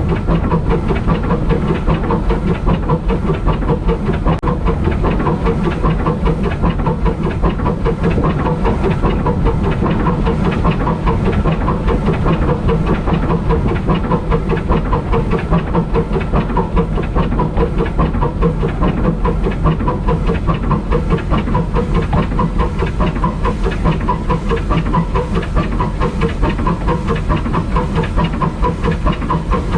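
Steam locomotive under way, a steady, continuous rhythmic clatter of wheels over the track with hissing steam.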